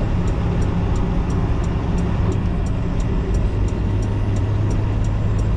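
Semi truck's diesel engine running steadily under way, a low drone heard inside the cab along with road noise.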